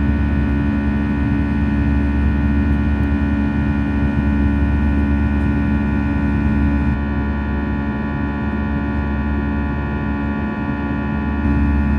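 Steady cabin drone of an Airbus A320 in flight: engine and airflow noise with a constant low hum of several fixed tones, easing slightly for a few seconds near the middle.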